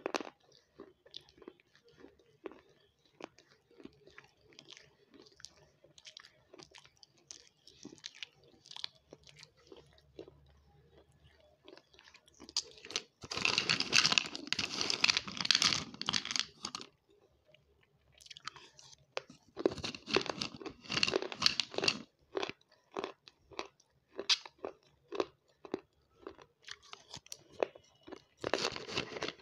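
Close-miked chewing of crunchy food: quiet mouth clicks and soft chewing, broken by loud, dense crunching bites about halfway through, again a few seconds later, and once more near the end.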